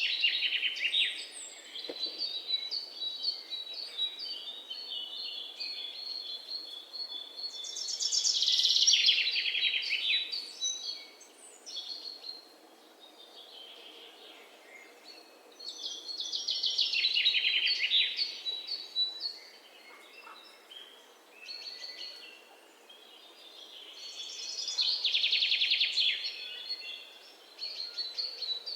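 High-pitched outdoor animal chirping, with a loud trilling swell that rises and fades about every eight seconds over a thin steady high note.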